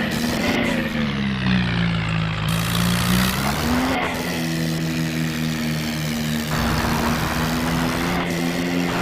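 Tractor engine sound running steadily, its pitch falling early on, rising again about halfway through as it revs, then holding.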